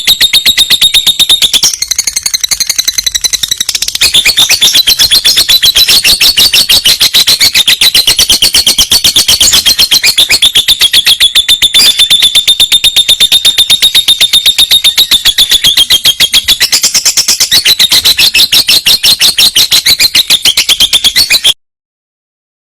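Lovebird singing a long rolling chatter ('ngekek'), a rapid high-pitched run of repeated notes that goes on unbroken for many seconds, softening briefly a couple of seconds in and then cutting off suddenly near the end.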